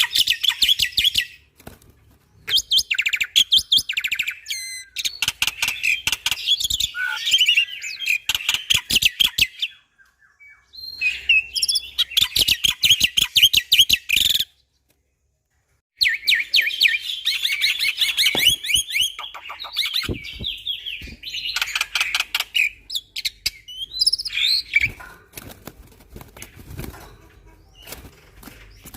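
Black-winged starling (jalak putih) singing a loud, rapid chattering song full of clicks and whistled notes, delivered in bursts with short pauses. The sound cuts out completely for about a second and a half midway.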